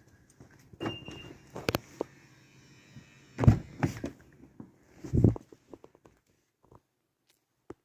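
A brief electronic beep about a second in, amid several dull knocks and thumps, the loudest about three and a half and five seconds in; then it goes quiet.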